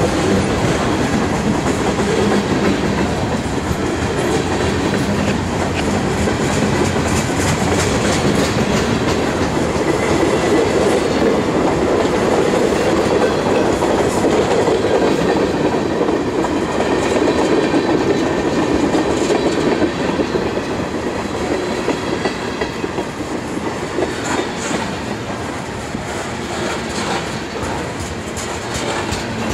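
Freight train cars rolling past close by: a steady rumble of steel wheels on rail, with repeated clicking as the wheels cross rail joints. It eases off slightly about two-thirds of the way through.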